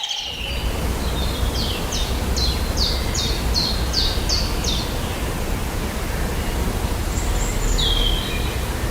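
A bird calls a quick run of about nine short, high, downward-slurred notes, roughly three a second, then gives one more call near the end, over a steady loud rushing noise.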